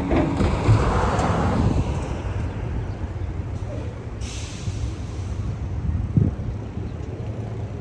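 Transit bus engine running close by, loudest in the first couple of seconds and then easing off, with a short burst of air-brake hiss about four seconds in.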